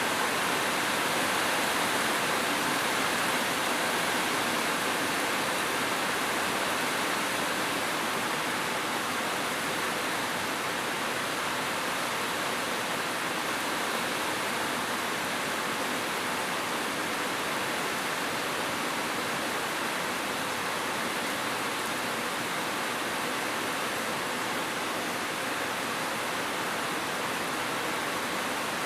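Steady rain falling, an even hiss with no distinct drops, thunder or other events standing out.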